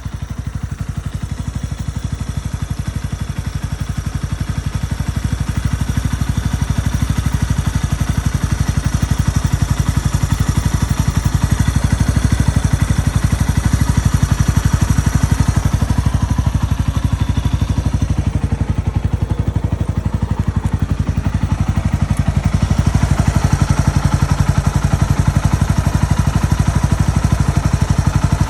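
Yamaha TW200's single-cylinder four-stroke engine running steadily, its firing pulses coming fast and even; it grows a little louder over the first several seconds.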